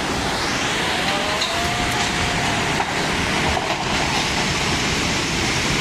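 Floodwater rushing through a city street: a loud, steady noise with no let-up.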